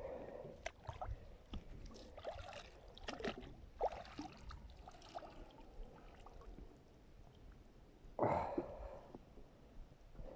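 A magnet-fishing rope being hauled in by hand from the water, with scattered scrapes, clicks and water sounds, and a louder watery rush about eight seconds in.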